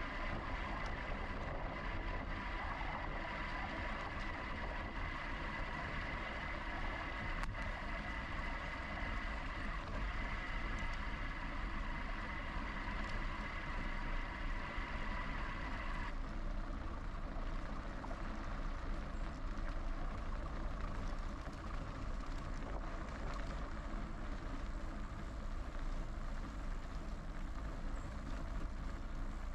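Steady rumble and wind noise of a moving electric bike ride, with a steady high whine over it that cuts off suddenly about halfway through.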